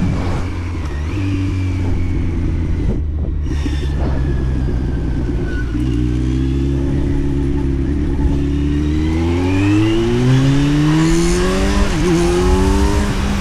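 Kawasaki Z900's inline-four engine running under way, holding a steady pitch at first, then accelerating with the pitch rising steadily from about halfway in, broken by a quick gear change near the end.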